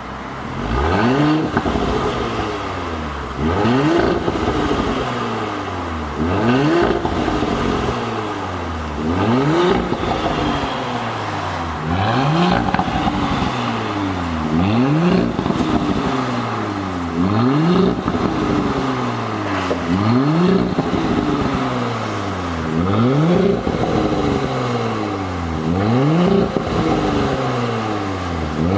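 Audi Q8 with an aftermarket valved performance exhaust, the engine blipped repeatedly about once every two and a half seconds, each rev climbing quickly and falling back to idle. Crackling pops come from the exhaust as the revs drop, the tuned pop-and-bang 'popcorn' sound.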